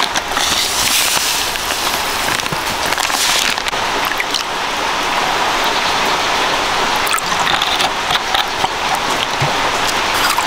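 Pork leg frying in hot oil, a loud, steady, crackling sizzle.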